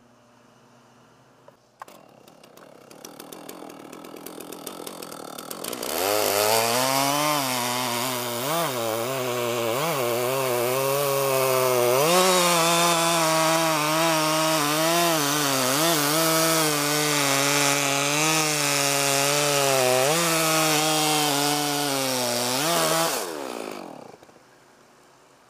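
Chainsaw running quietly at first, then at full throttle from about six seconds in, cutting oak wood for roughly seventeen seconds, its pitch dipping again and again as the chain bites, then stopping near the end.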